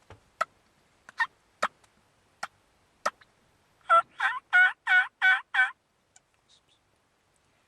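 Merriam's wild turkeys calling at close range: a few short, separate calls, then about four seconds in a loud run of six quick calls.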